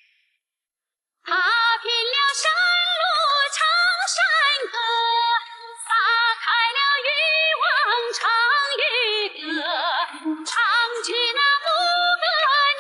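A woman singing with strong vibrato, beginning about a second in after a brief silence.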